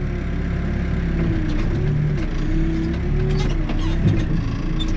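Backhoe's diesel engine running steadily, its pitch dipping and rising slightly, with a few light clicks and knocks from the machine and a small knock about four seconds in.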